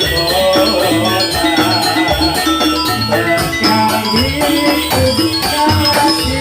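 Javanese jathilan music: gamelan-style ensemble with many short struck metallic notes over a low drum pulse, and a dense rattling shimmer in the high range.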